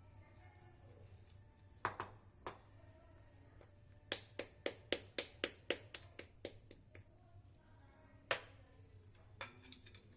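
Sharp taps of a kitchen utensil against a dish. A few single taps come first, then a quick run of about a dozen at roughly four a second, and two more near the end.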